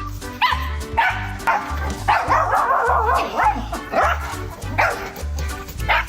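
A dog barking repeatedly, with a dense run of calls in the middle, over background music with a steady beat.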